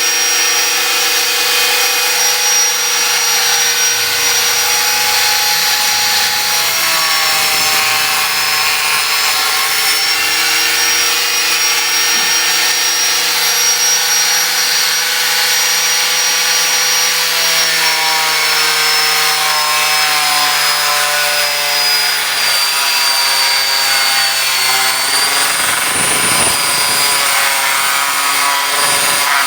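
Angle grinder cutting through the metal of a water heater: a steady high whine over a dense grinding hiss, its pitch drifting slightly as the disc bites.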